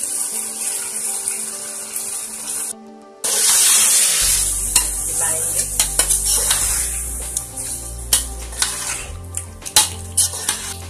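Chicken and masala sizzling in oil in a metal pot as yogurt is poured in, then a spatula stirring the pot, scraping and knocking against its sides with many sharp clicks. The sound drops out briefly about three seconds in.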